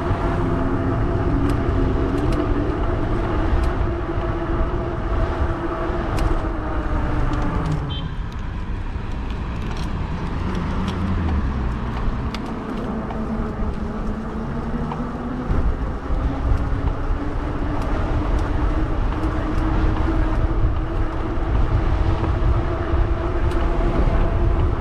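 Fat-tire e-bike's electric motor whining steadily under power, the pitch dropping about eight seconds in and then slowly climbing back as the bike picks up speed, over a low wind rumble on the microphone.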